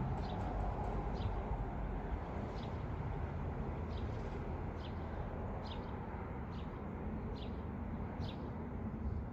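A small bird chirping repeatedly, short high chirps about once a second, over a steady low outdoor rumble typical of traffic.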